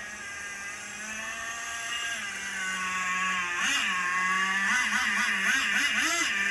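Radio-controlled truck's motor whining at a steady pitch. From about three and a half seconds in it rises and falls in pitch with quick throttle blips, a few a second.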